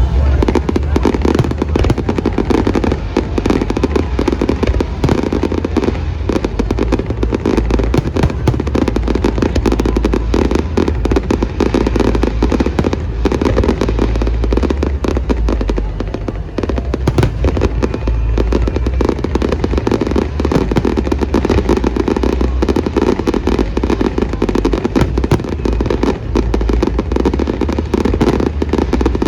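Fireworks display: a dense, near-continuous barrage of bangs going off in rapid succession.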